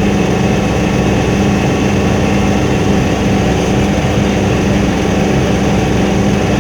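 Helicopter engine and rotor noise: a loud, steady drone with a strong constant hum.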